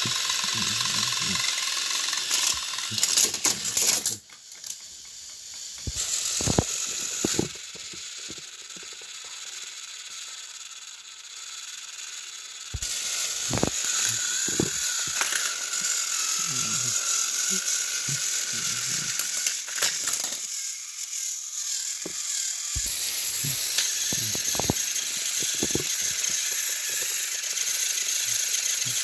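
Battery-powered toy train engines whirring along plastic track, their small motors and gears rattling, with scattered clicks from wheels and couplings.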